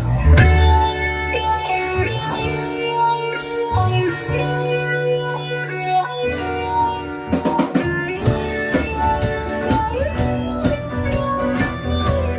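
Live band starting a song with no singing yet: guitar over bass and drum kit, beginning abruptly after the talk.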